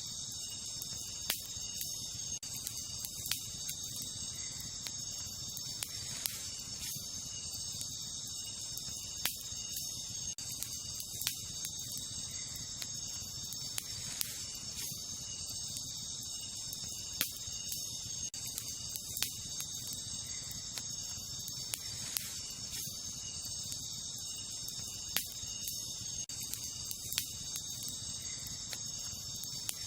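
Wood campfire crackling, with sharp pops every second or two, over a steady high chorus of night insects such as crickets.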